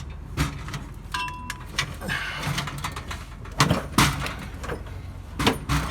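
A series of sharp knocks and clunks, loudest about two-thirds of the way in, over a steady low hum.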